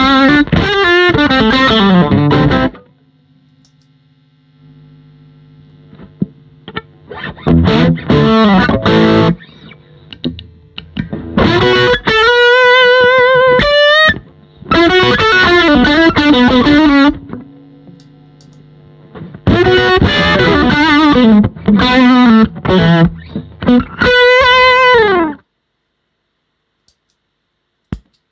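Overdriven electric guitar, a Stratocaster through an EWS Brute Drive pedal into a Fender Bassman amp, playing bluesy lead phrases with string bends. Quieter sustained notes ring between the bursts of playing. The sound cuts off abruptly about 25 seconds in, followed by a single faint click.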